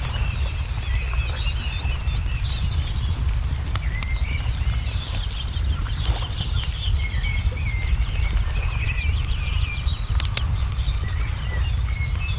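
Songbirds chirping and trilling, with the scattered sharp pops of a crackling wood fire and a steady low rumble underneath.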